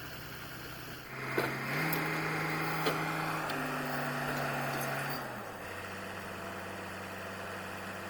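A borewell drilling rig's engine revs up about a second in, stepping up in pitch twice, with a couple of sharp clanks. Around five seconds in it settles back to a lower, steady idle.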